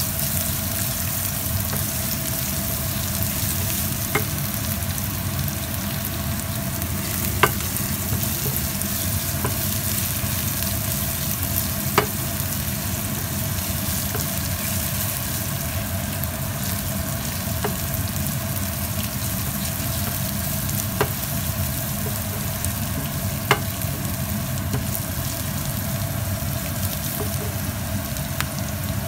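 Chopped onion and chilli sizzling steadily as they fry in oil in a non-stick pan, stirred with a wooden spatula, with an occasional sharp click of the spatula against the pan.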